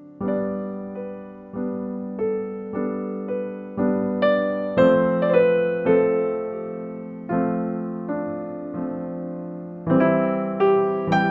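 Background music: a slow, gentle piano melody, single notes struck about every half second and left to ring.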